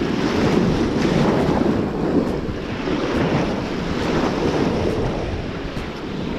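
Ocean surf washing onto the beach, a steady rushing noise that swells and eases, with wind buffeting the microphone.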